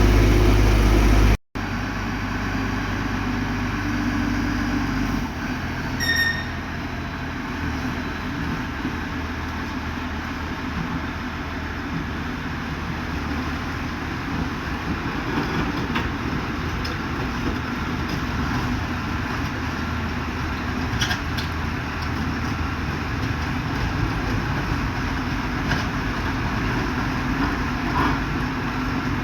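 Heavy diesel engines of road-paving equipment running steadily. The sound changes at a cut about a second and a half in, from a louder engine to a lower rumble, and a short high beep sounds about six seconds in.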